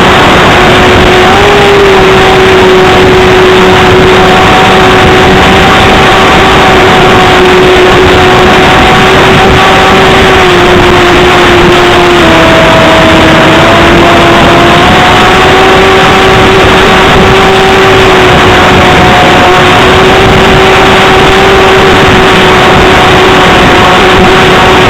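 Steady whine of the Parkzone P-51's brushless electric motor and propeller, its pitch dipping for a couple of seconds about halfway through and then recovering, over loud rushing noise from strong wind on the microphone.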